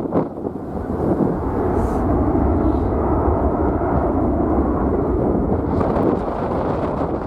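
Jet airliner on its takeoff run, a loud steady roar with a deep rumble that builds about a second in, mixed with strong wind buffeting the microphone.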